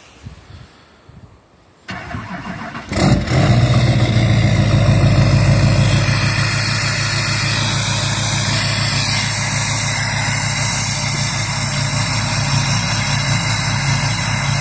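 2008 Duramax LMM 6.6-litre V8 turbodiesel cold-starting: the starter cranks for about a second before the engine catches about three seconds in, runs loudest briefly, then settles into a steady loud idle through its 5-inch exhaust. It starts without trouble.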